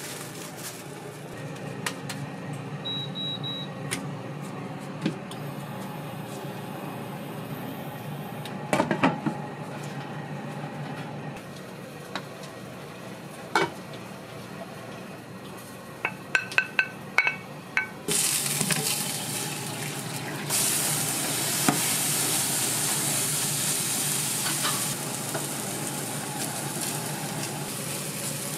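Kitchen clatter with a few clinks of utensils and dishes. About two-thirds of the way through, a loud sizzle of food frying on a hot cooking surface starts. It swells a couple of seconds later and eases slightly near the end.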